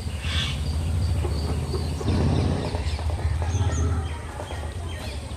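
Many birds calling and chirping over a steady low rumble.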